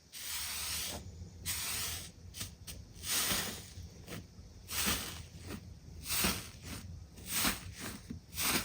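Slime being squeezed and stretched by hand, giving a string of hissing squishes, roughly one a second.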